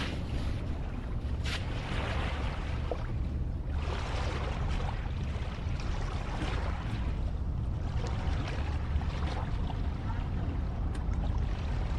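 Ocean waves washing in: a steady low rush of surf that swells and eases every few seconds.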